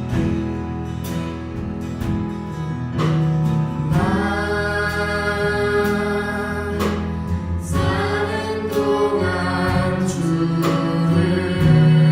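Church praise band and singers performing a worship song, voices held on long notes over the band, with the chords changing every few seconds.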